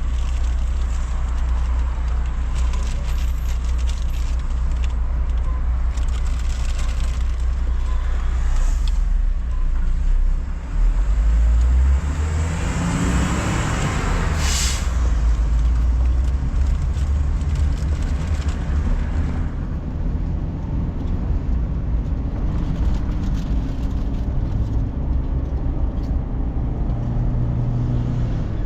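Steady low rumble of a car's engine and tyres, heard from inside the cabin while driving through city streets. About halfway through, a rush of traffic noise swells and fades over several seconds, with a brief sharp hiss at its peak.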